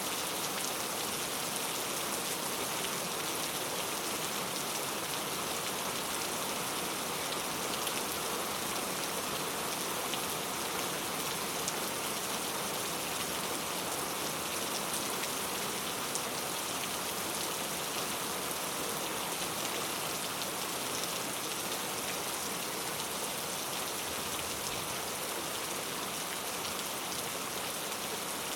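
Steady heavy rain falling on a surface, a dense, even hiss with many fine drop ticks.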